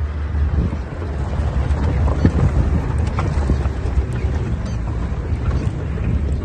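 Steady low rumbling wind noise buffeting the microphone, with a few faint clicks.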